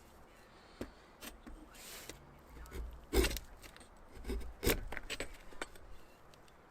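Hand tools working an oak axe handle: a few sharp knocks and scrapes, the loudest about three seconds in.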